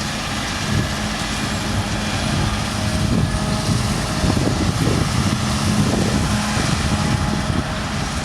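Claas Lexion 7600 combine harvester running under load while cutting beans: a steady machine hum over a low rumble that turns rougher and uneven from about three seconds in.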